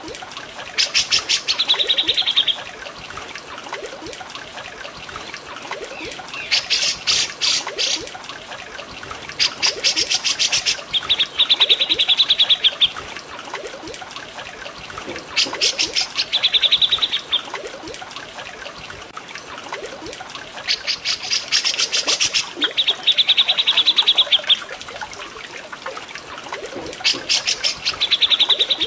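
Caged-songbird tutor recording: a songbird repeats the same phrase every few seconds, a rapid run of sharp notes followed by a high trill. Under it runs the steady sound of trickling water.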